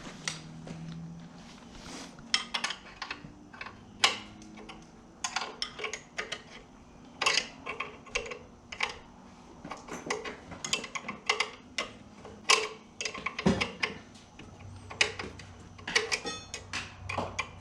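Irregular metallic clicks and clinks of hand tools and metal parts being handled while working on an ATV's drive chain and chain adjusters, with a quick run of closely spaced ticks near the end.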